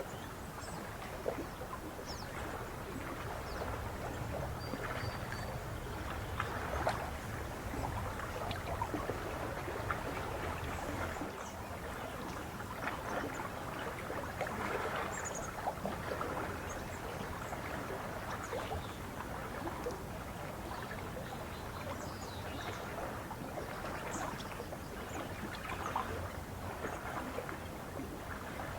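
Lake water lapping and splashing in small irregular wavelets, steady throughout, over a low rumble. A few faint, short bird chirps sound now and then.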